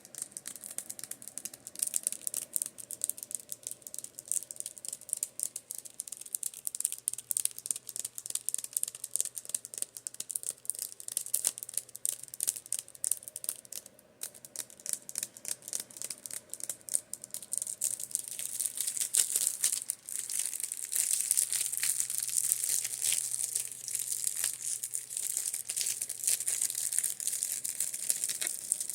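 Rapid tapping and scratching on makeup brushes, a dense crackle of quick taps that grows denser and louder in the second half. A faint, steady electric-fan hum runs underneath.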